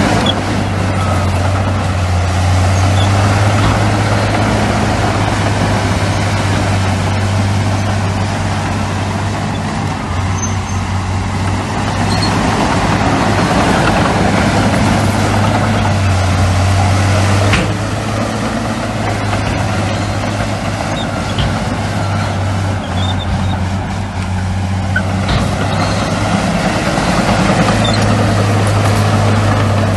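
Heavy diesel construction machinery running: a loud, steady low engine drone over the noise of machines working, easing off for a while in the second half and coming back near the end.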